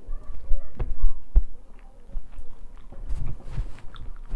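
Close-miked eating sounds: chewing and lip-smacking, mixed with irregular clicks and light taps of fingers working rice on a steel plate.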